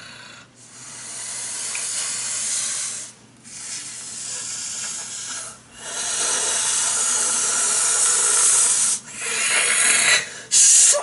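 A person's voice imitating a xenomorph (the Alien creature) with long, breathy hisses, about four of them with short breaks between.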